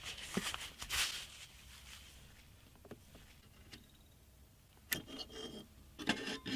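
Hands handling PC parts and their packaging: short bursts of rustling and scraping with light clicks, near the start, about five seconds in and again near the end.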